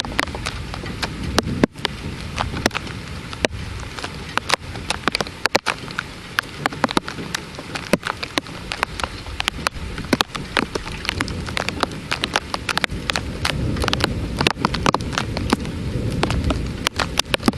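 Heavy thunderstorm rain falling steadily, with frequent sharp, irregular taps of drops striking a hard surface close by.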